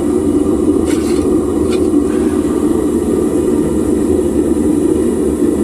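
Homemade propane furnace's gas burner running with a steady, even roar of flame, with two faint clicks about one and two seconds in.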